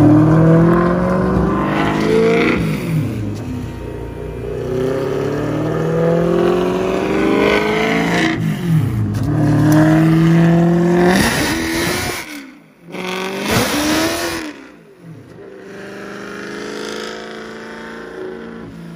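BMW M3 race car's V8 running hard on a chassis dyno, its note climbing, falling sharply and climbing again twice. About twelve seconds in the throttle closes, a short rev follows, and the engine settles to a steady, quieter, lower note.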